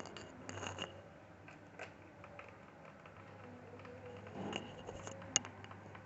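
Small clicks and scraping of a laptop's plastic casing, parts and screws being handled, with a short rustle about half a second in, another just past four seconds, and a sharp click a little past five seconds.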